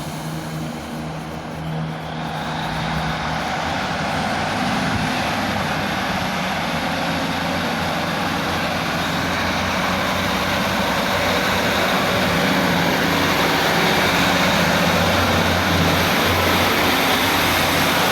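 Class 156 diesel multiple unit pulling away from the platform, its diesel engines working under power. It grows louder over the first few seconds and holds steady after that.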